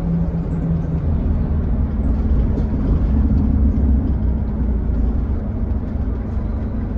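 Scania K320HB bus's diesel engine running under way with a low rumble, its pitch rising over the first few seconds as the bus accelerates, then holding steady and easing off slightly near the end.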